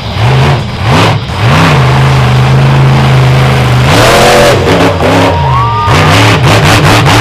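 Monster truck engine revving hard: it climbs and holds a high, steady note for about two seconds, then rises and falls in several quick throttle blips near the end.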